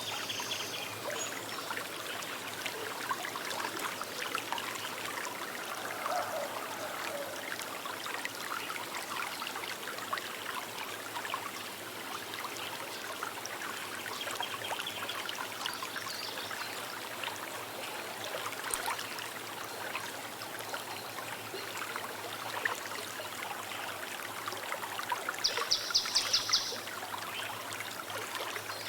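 Small river running steadily, water trickling and babbling over stones. Near the end a bird gives a short rapid trill of high notes lasting about a second.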